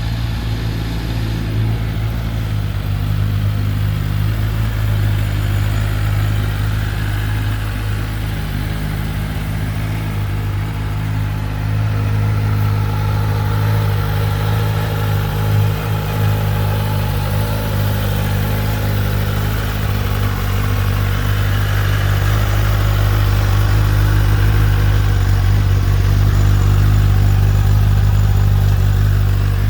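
2021 Kawasaki Ninja ZX-10R's inline-four engine idling steadily, with a brief wobble about halfway through and a little louder near the end.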